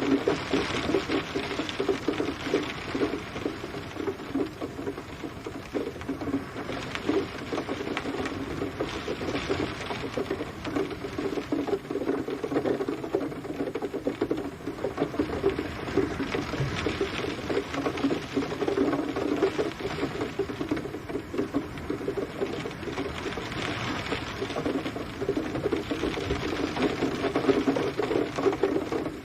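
Steady rain pattering on a surface: a dense stream of drops that swells and eases every few seconds.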